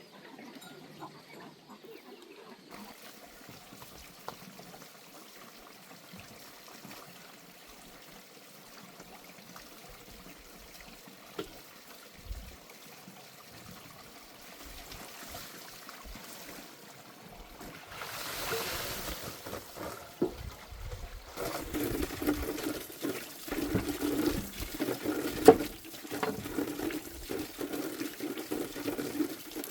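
Water trickling, faint at first, then running and splashing more loudly from about two-thirds of the way in, with irregular small knocks.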